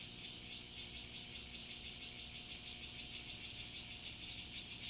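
Night forest ambience of calling animals: a high, rapid pulsing chirp at about eight pulses a second, with a faint steady low hum beneath.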